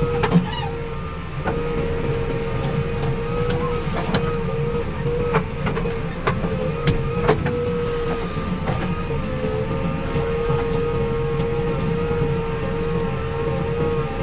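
Diesel engine of a JCB 3DX backhoe loader running steadily with a constant whine over it. Several sharp metallic knocks come in the middle, between about three and seven and a half seconds in.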